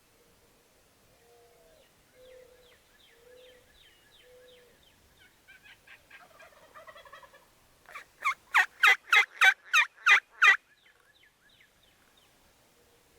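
Wild turkeys calling in the woods: a fainter rattling gobble about six seconds in, then a loud run of about nine sharp, evenly spaced notes, about four a second.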